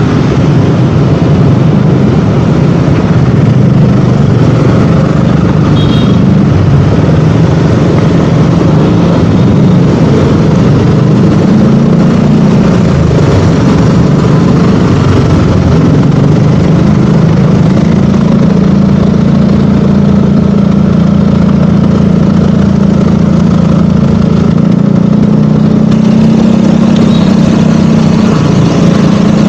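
KTM Duke 200's single-cylinder engine running while riding. Its pitch rises and falls with the throttle through the first half, then holds steady from a little past halfway.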